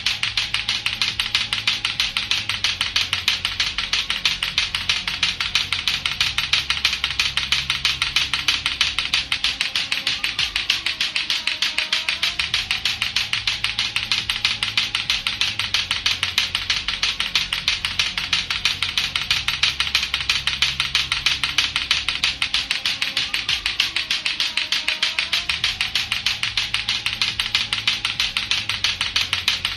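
Latto-latto clackers: two hard plastic balls on a string knocking together in a rapid, steady, unbroken run of sharp clacks.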